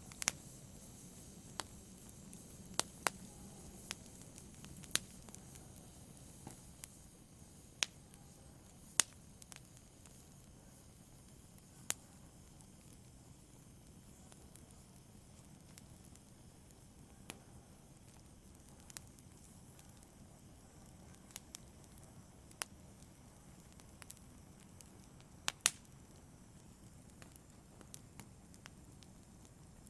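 Wood fire burning in a fireplace: a soft steady hiss and low rumble with sharp crackles and pops at irregular moments, a few every few seconds.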